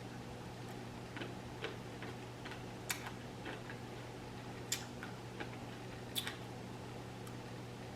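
Close, wet mouth clicks and smacks from chewing seedless muscadine grapes, coming at uneven intervals over a steady low hum.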